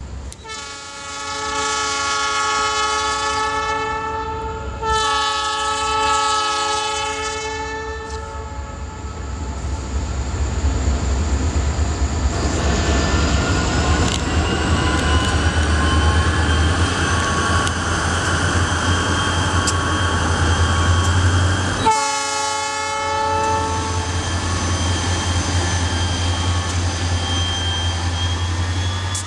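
Freight locomotive air horn sounding two long blasts on a train of Bakken crude-oil tank cars, then the low rumble and clatter of the train rolling past. About 22 seconds in comes a shorter horn blast.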